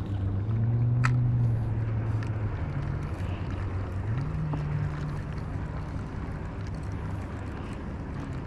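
A boat engine's low steady hum whose pitch shifts, rising about four seconds in, with a sharp click about a second in.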